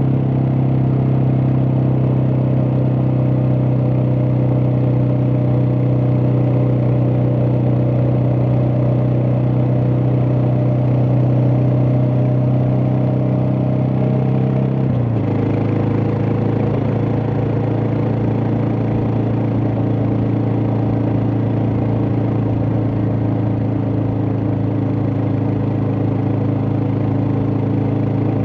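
Suzuki DR650's single-cylinder four-stroke engine running steadily while the motorcycle is ridden; about halfway through its pitch drops quickly to a slightly lower, steady note.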